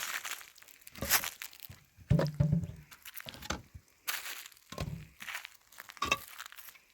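Plastic sheeting crinkling and crackling as it is handled, in short separate bursts.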